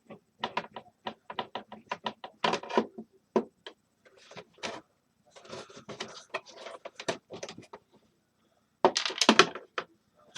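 Parts of a space heater clicking, knocking and rattling under hand tools as it is taken apart, in irregular bursts with the loudest rattle near the end.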